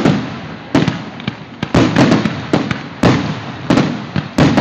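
Fireworks going off in quick succession, several sharp bangs a second, each with a booming rumble after it, heard through a phone's microphone.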